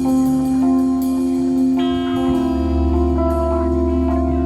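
Live band playing, led by guitar with held chord notes; a deep bass note comes in about halfway through, with light cymbal ticks above.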